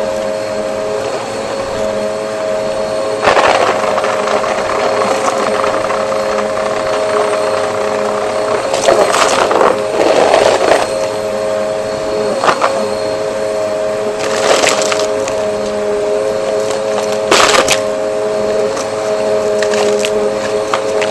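Vacuum cleaner running with a steady motor whine. Several short bursts of crackling noise come over it as debris rattles up the nozzle.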